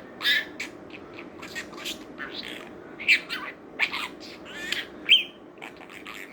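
Budgerigar chattering in a rapid run of short high chirps, clicks and warbles, with a brief whistle about five seconds in.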